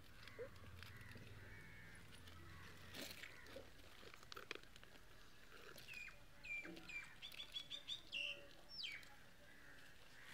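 Faint bird chirps over quiet background: three short falling calls about two-thirds of the way in, then a quick run of high notes and a falling whistle. A few faint knocks come earlier.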